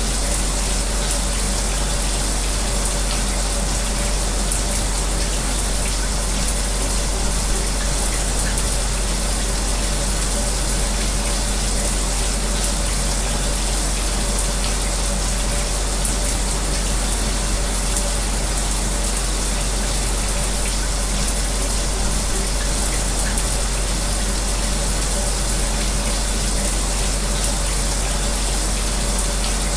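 Shower spray running steadily, mixed with an electric fan's constant hum, an even hiss that never changes.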